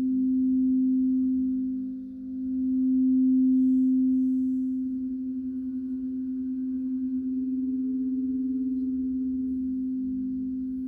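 Singing bowl sounding one sustained low tone that swells and dips in loudness. A fainter higher overtone comes in about halfway through and fades near the end.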